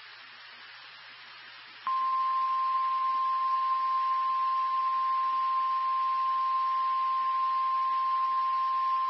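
NOAA Weather Radio warning alarm tone: one steady, unbroken high tone near 1050 Hz that starts about two seconds in, after a moment of faint radio hiss. It signals that a new warning is about to be broadcast.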